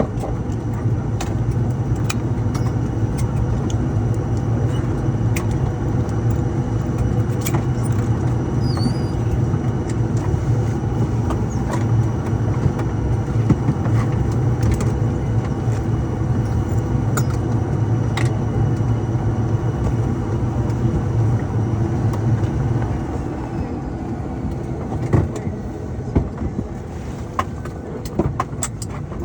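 Light aircraft's propeller engine running steadily, then being shut down about 23 seconds in, its low drone dropping away and leaving weaker noise with a few scattered clicks.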